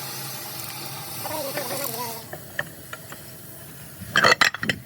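A steady hiss that cuts off about two seconds in, then a few light clicks and a short cluster of loud knocks near the end.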